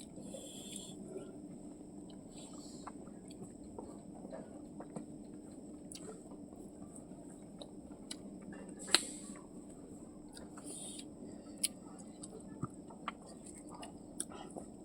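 Quiet eating sounds: chewing and mouth noises with scattered small clicks, a sharper click about nine seconds in, over a steady low hum.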